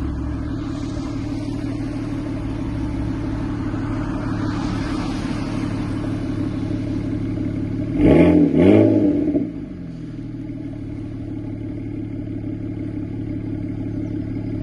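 BMW E92 335i's turbocharged straight-six idling through its M exhaust on a cold start. It is blipped twice in quick succession about eight seconds in, the revs rising and falling, then settles back to a slightly quieter idle.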